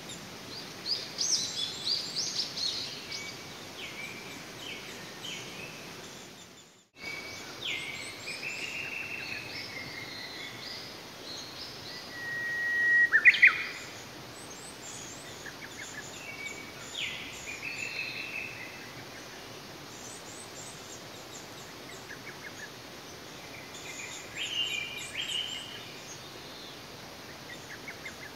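Wild birds singing over a steady background hiss, in a run of short, high phrases. The loudest is a long whistled note a little before halfway through that ends in a sharp drop in pitch. The sound cuts out briefly about seven seconds in.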